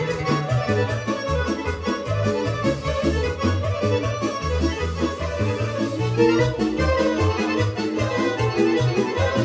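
Fast Serbian kolo folk dance music played by a live band, with quick melody lines over a steady driving bass beat.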